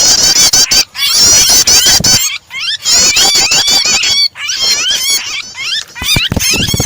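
Recorded prinia (prenjak) calls, a fast run of high repeated chirps and trills, mixed with the harsh screeching of a bird in distress, caught or pinched. A looped starter track meant to provoke songbirds into calling. Short breaks come about one, two and four seconds in.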